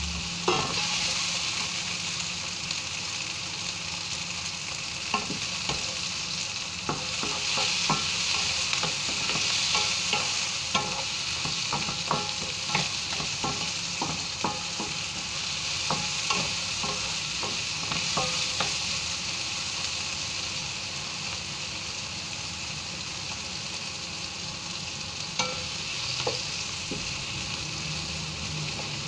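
Chopped onion, garlic and tomato sizzling as they fry in a nonstick frying pan, with a wooden spatula stirring and knocking against the pan. The knocks come thick and fast in the first two-thirds, then thin out to a few near the end.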